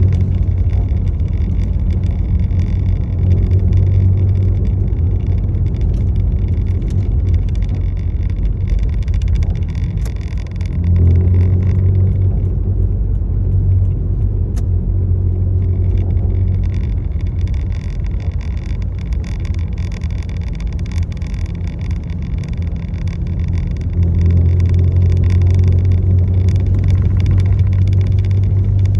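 A motor vehicle running with a steady low drone, swelling about 11 seconds in and again near the end.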